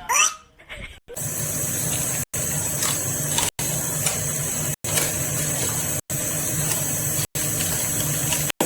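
A brief rising-then-falling squeal at the start, then a loud steady motor-like whir with a low hum, broken by short gaps about every second and a quarter.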